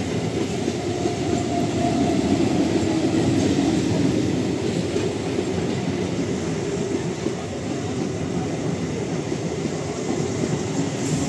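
Howrah–Katwa EMU local train (electric multiple unit) running past at close range: a steady noise of its wheels on the rails.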